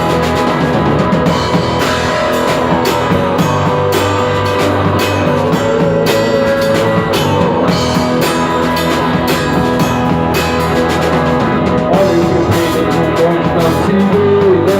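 Rock band playing an instrumental passage: guitar over a drum kit keeping a steady beat, with sliding guitar notes near the end.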